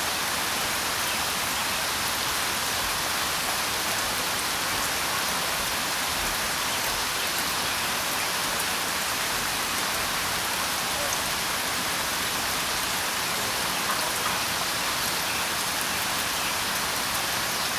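Steady rain falling: an even hiss of drops that holds the same level throughout.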